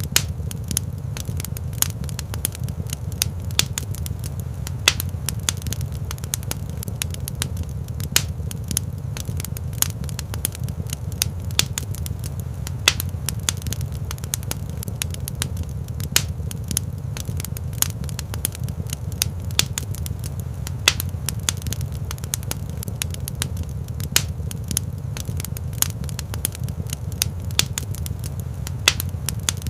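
Wood fire crackling in a rock fireplace: frequent, irregular sharp pops and snaps over a steady low rumble of the burning fire.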